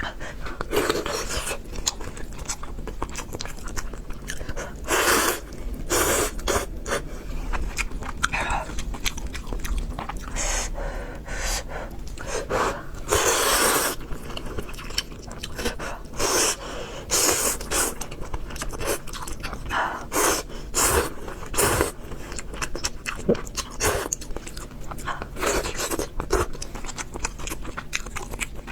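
Close-miked eating of spicy noodles with pork: wet chewing and biting, broken by longer noisy slurps of noodles every few seconds.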